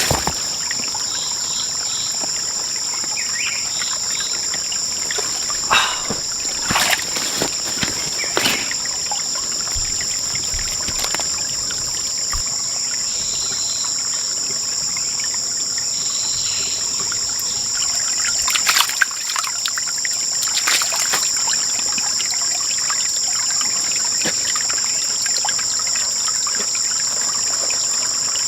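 Insect chorus buzzing steadily in two high, unbroken tones, with scattered sharp knocks and rustles, in two clusters: about a quarter of the way in and again about two-thirds in.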